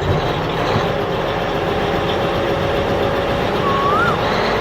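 A vehicle engine running steadily, with a short whistle-like chirp that rises and falls near the end.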